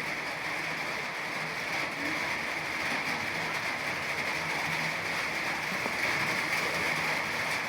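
Steady rain falling, an even hiss with no single drops or events standing out.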